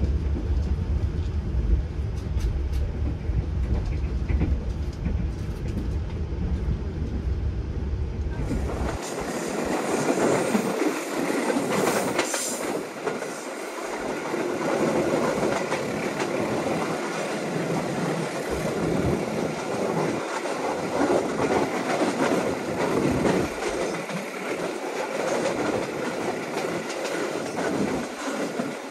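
Argo Dwipangga New Generation passenger train running along the track. About nine seconds in, the deep low rumble stops abruptly and a brighter, noisier running sound takes over.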